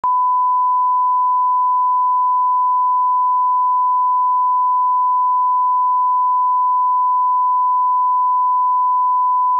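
Line-up test tone: one pure, steady electronic pitch held without any change.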